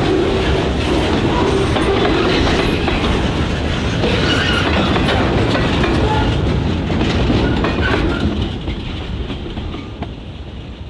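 Freight train cars rolling past, wheels clacking over the rail joints, with the sound dying away over the last few seconds.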